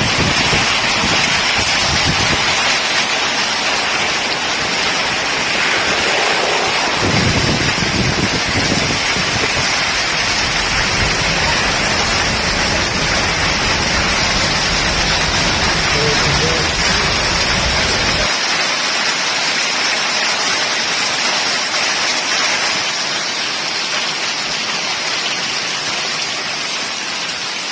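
Very heavy rain pouring down steadily, a dense even hiss of rain. A low rumble underneath cuts out suddenly about two-thirds of the way through.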